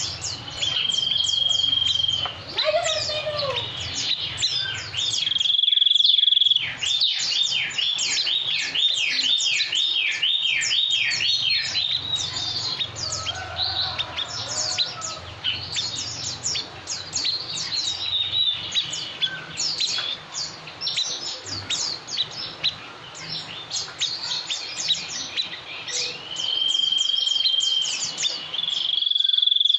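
Bird song: long level whistles held for about a second each, near the start, around six seconds in and twice near the end, over dense high chirping, with a fast run of falling notes in the middle. A low steady hum lies underneath.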